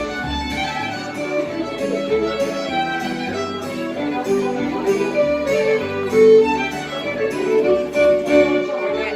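Fiddle-led folk dance tune played at a lively, even beat, with a plucked bass line underneath.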